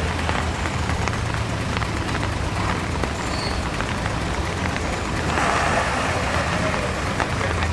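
A truck engine running, with a steady rushing noise over it that swells briefly about five seconds in.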